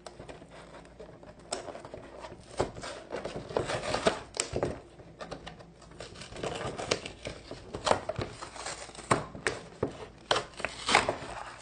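Plastic toy packaging being handled and opened: irregular crinkling and clicking.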